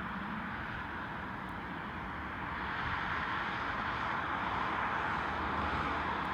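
Steady roar of a distant jet airliner, growing a little louder about three seconds in.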